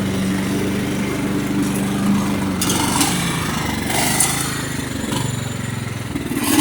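Craftsman lawn tractor's 16.5 hp Kohler Command engine running steadily under mowing load, with the note shifting slightly lower about five seconds in.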